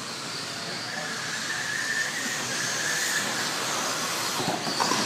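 RC stadium trucks racing: a steady hiss of tyres and motors, with high motor whines drifting up and down in pitch and a few clatters near the end.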